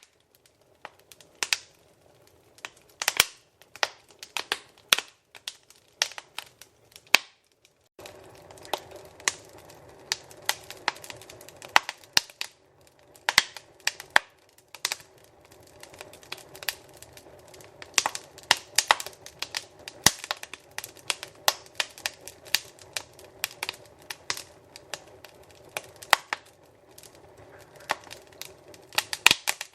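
Wood fire crackling in a fireplace: irregular sharp pops and snaps, several a second at times, over a low steady hiss of burning. The background hiss drops out briefly about seven seconds in, then returns a little fuller.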